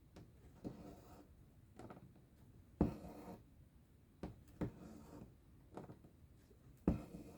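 Cross-stitch needle popping through taut fabric, each pop followed by a short rasp as the thread is drawn through. About eight stitches sound, the loudest about three seconds in and near the end.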